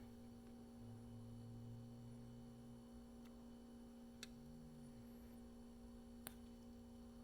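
Near silence: room tone with a steady low hum and two faint ticks, about four and six seconds in.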